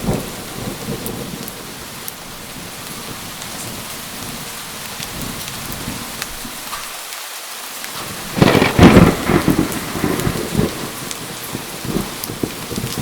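Steady heavy rain falling, with a sharp thunderclap about eight and a half seconds in that rumbles and fades over the next few seconds.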